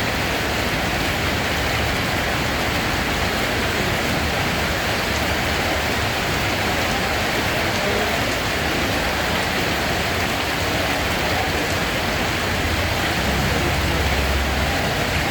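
Steady rain falling, an even dense hiss of drops on surfaces, with a low rumble swelling briefly near the end.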